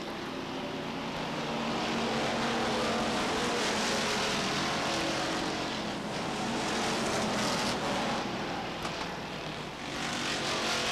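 A pack of short-track stock cars racing at full throttle, their engines droning and swelling louder as the cars come past, with tyre and wind noise.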